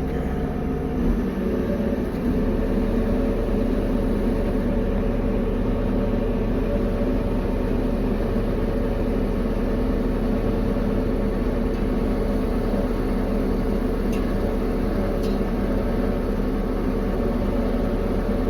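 A vehicle engine running steadily, a low, even hum that shifts slightly about two seconds in.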